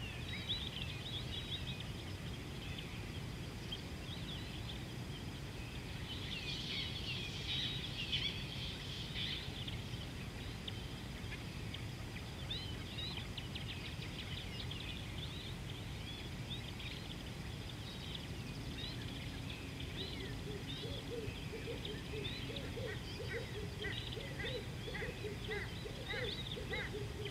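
Wild birds chirping and calling over a steady low background rumble, with a denser flurry of chirps early in the middle stretch. Near the end a rapid series of lower calls starts and keeps going.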